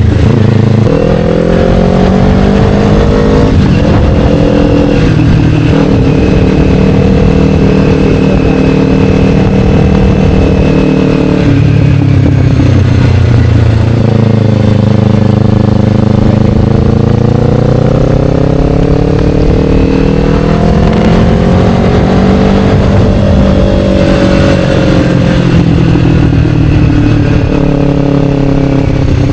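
Kawasaki Ninja 500's parallel-twin engine through an Akrapovic slip-on exhaust, under way. The engine note climbs with breaks at gear changes about 4 and 11 seconds in, then rises and falls slowly with the throttle, with another shift near the end.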